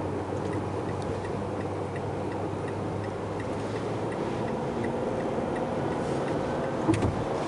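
A car's turn signal ticking steadily inside the cabin over road and engine noise, signalling a lane change to the left. A brief knock near the end.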